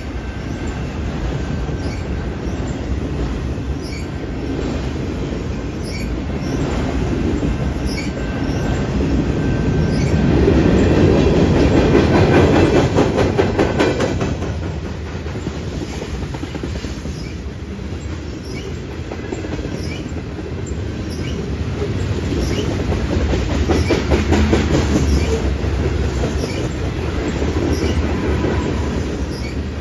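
A mixed freight train's cars rolling past at close range: a steady rumble with wheels clicking over the rail joints. It swells twice as heavier stretches of cars go by.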